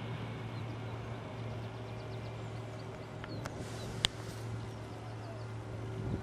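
Steady low hum, with faint short bird chirps and one sharp click about four seconds in.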